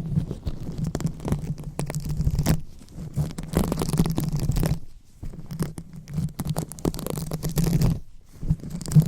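Fingers rubbing and scratching directly on a microphone: dense crackly scratching over a low rumble of handling noise. It comes in stretches of one to three seconds with brief pauses about a third of the way in, halfway through and near the end.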